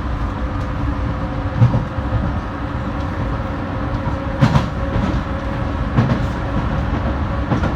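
Docklands Light Railway train running, heard from inside the carriage: a steady rumble with a faint steady hum, broken by a few short knocks from the running gear.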